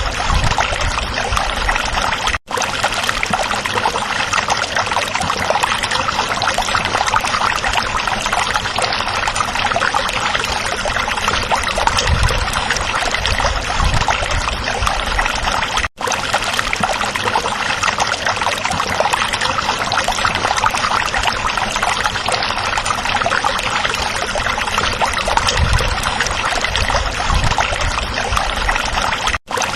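A small stream flowing over rocks, babbling and splashing steadily. The sound drops out for an instant three times.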